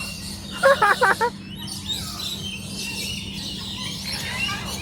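Birds chirping and twittering, with a short burst of louder, wavering calls about a second in.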